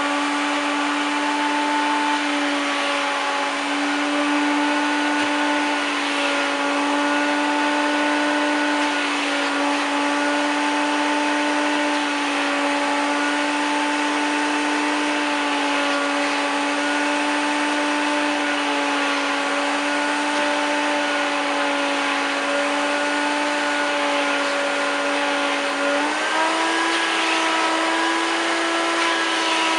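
A 1993 Hoover Turbopower 1000 U2814 vacuum cleaner running steadily while vacuuming a sofa, with a steady motor whine. Near the end the pitch of the whine steps up a little.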